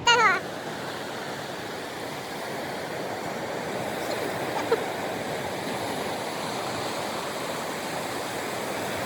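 Steady wash of sea surf on the shore. Right at the start comes a short, loud, high-pitched sound that falls in pitch, and there is a faint click a little past halfway.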